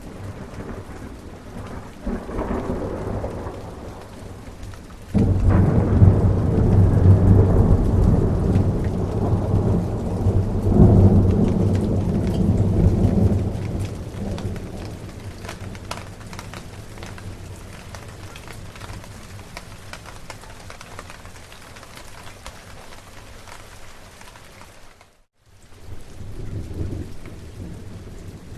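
Steady rain with thunder. A low rumble comes about two seconds in, then a loud roll of thunder starts suddenly about five seconds in, swells again a few seconds later and slowly dies away into the rain. Near the end the sound cuts out for a moment, and a fainter rumble follows.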